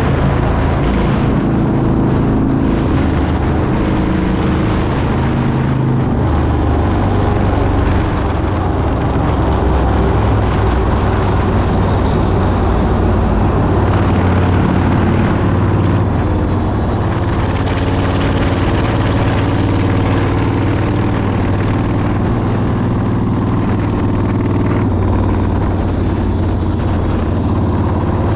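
Motorcycle riding at a steady speed: a continuous engine drone mixed with wind noise rushing over the microphone.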